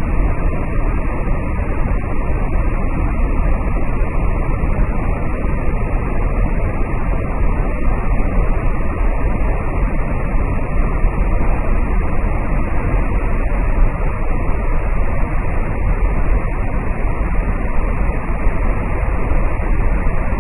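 Waterfall running in heavy flow after rains: a loud, steady roar of falling water.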